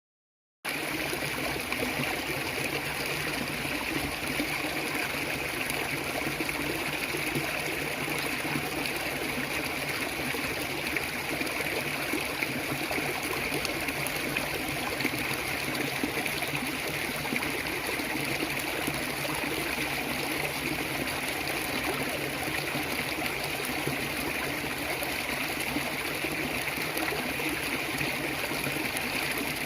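Stream water flowing steadily over rocks, a continuous rushing and trickling that starts abruptly about half a second in after dead silence.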